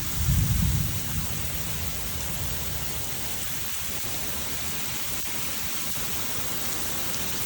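Steady downpour of rain, an even hiss throughout, with a brief low rumble in the first second.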